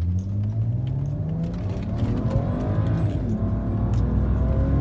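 2007 BMW 328i's twin-turbo engine under hard acceleration, its pitch climbing steadily, dropping at a gear change about three seconds in, then climbing again.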